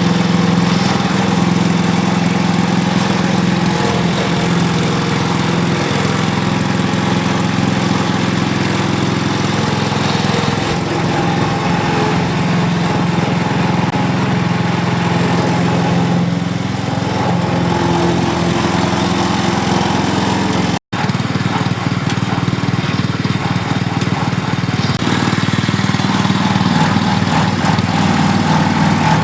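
Small gasoline engine of a walk-behind power carrier running steadily after its carburetor has been cleaned. Its sound cuts out completely for a split second about 21 seconds in.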